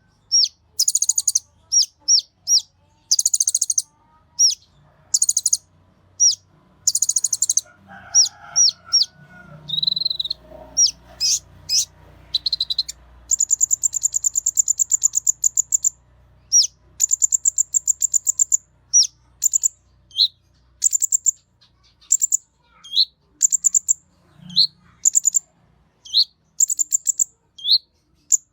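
Kolibri ninja sunbird singing: a fast run of high-pitched chirps, short slurred notes and buzzy trills, with a long rapid trill about halfway through.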